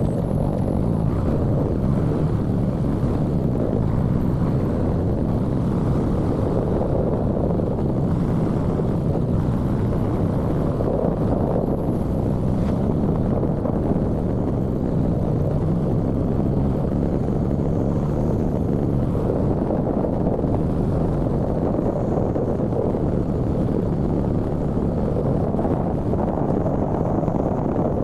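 Motorcycle on the move: steady wind rush and engine and road noise with no change in pitch or level.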